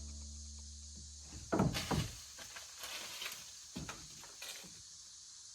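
Background music ends about a second in, giving way to a few scattered knocks and rustles, the loudest pair near the two-second mark, over a steady high hiss.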